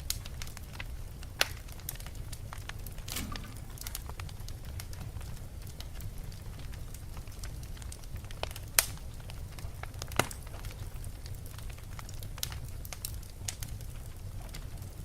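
Wood fire burning in a fireplace: a steady low rumble with irregular crackles and pops, three sharper snaps standing out, and a brief hiss about three seconds in.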